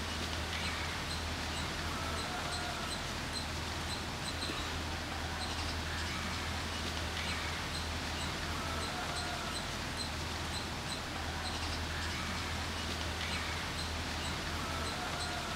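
Outdoor ambience with a steady low hum, and a small bird giving a faint short call that repeats about every second and a half.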